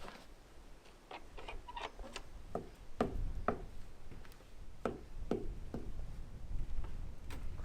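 A string of irregular knocks and clicks, quicker and lighter at first, then heavier from about three seconds in, with a low rumble under them.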